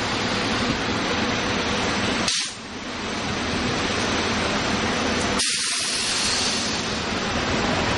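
SEPTA Silverliner IV electric commuter train passing close by: a steady rushing of wheels on rail and car bodies going by, dipping briefly about two and a half seconds in.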